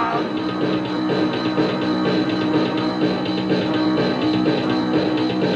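Punk rock band playing an instrumental passage with drums keeping a steady beat, on a lo-fi dictaphone recording.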